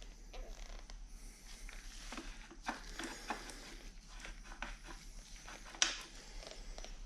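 Light handling noises: scattered scrapes and small clicks of metal parts and tools being worked by hand, with one sharp click about six seconds in.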